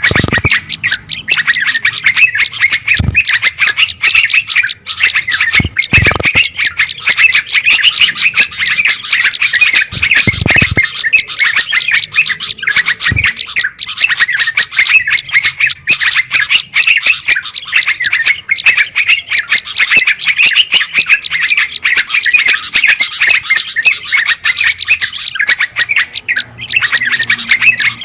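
A loud, dense chorus of agitated small songbirds chattering and chirping without a break. This is a bird-lure recording of alarmed birds, played to draw wild bulbuls and tailorbirds in. A few low thuds sound in the first half.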